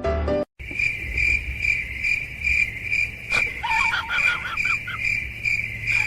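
A cricket chirping steadily, a high pulsing trill repeated about twice a second, starting just after a piano tune cuts off. Faint short gliding calls sound briefly in the middle.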